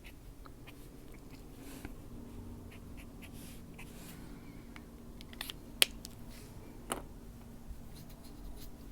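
Faint scratching of colouring on a paper page, with two sharp clicks a little past halfway, over a steady low room hum.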